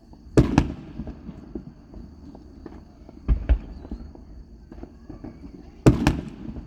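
Fireworks going off: three double bangs a few seconds apart, each pair about a fifth of a second apart and followed by a short rumbling echo, with smaller pops between them.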